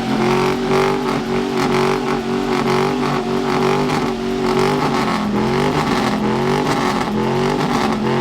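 Truck engine revved up and held at steady high revs through a loud exhaust, the pitch wavering briefly around the middle before settling again.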